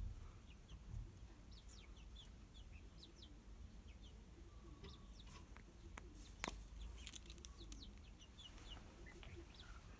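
Faint, scattered short chirps of birds, with one sharp click about six and a half seconds in.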